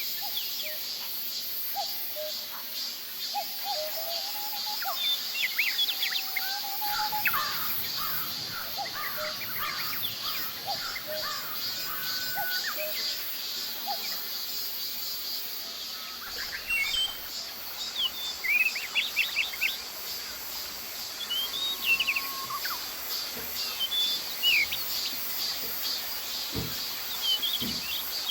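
Several wild birds chirping and calling in a forest, with short whistled notes and quick chirp series, over a steady high insect drone typical of summer cicadas.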